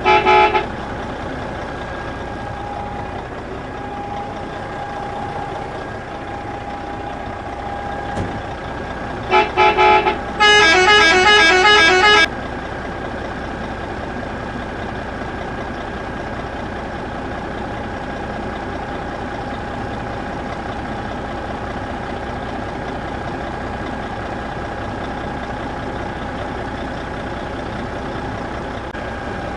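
Electronic horn of a DIY model mini truck: a few short toots at the start, more short toots about nine seconds in, then a warbling musical horn tune for about two seconds. A steady whine runs underneath throughout.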